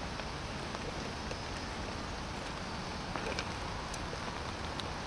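Light rain falling steadily on the campsite, an even patter of drops, with a few faint small clicks a little after the middle.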